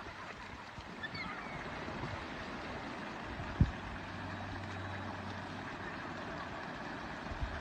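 Steady rushing wind-and-water noise at sea. A faint short chirp comes about a second in, and a single sharp thump falls about halfway through, followed briefly by a low hum.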